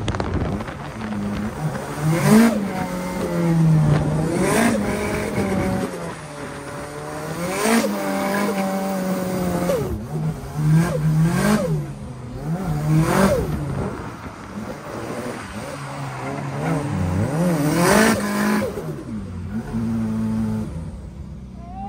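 Drift car engine revving hard and repeatedly, its pitch climbing and dropping again and again every couple of seconds, with tyre squeal and rushing noise at the peaks.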